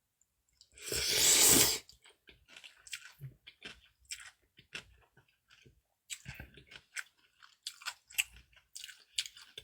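Close-miked eating of naengmyeon and dumplings: a loud rushing sound lasting about a second near the start, then irregular small chewing clicks and mouth smacks.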